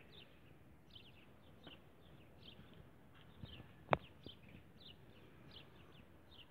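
Small birds chirping faintly: a steady string of short, falling chirps, with one sharp click about four seconds in.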